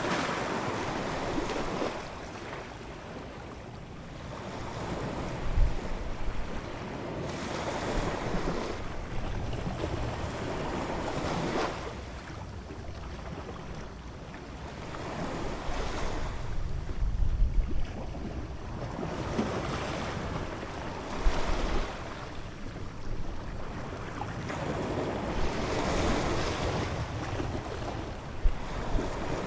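Ocean waves breaking and washing in, the roar swelling and fading every few seconds. Wind buffets the microphone in several short low thumps.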